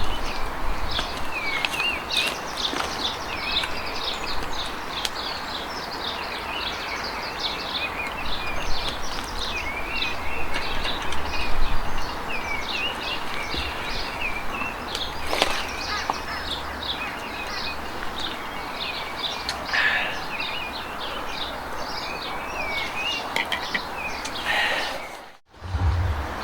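Wild birds singing continuously, a steady run of quick high chirps and trills, over a constant outdoor background hiss, with an occasional single click.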